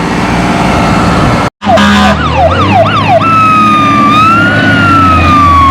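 Fire truck siren going: after a brief gap, a few quick falling yelps, then a long wailing tone that rises a little and slowly falls. The truck's engine runs underneath.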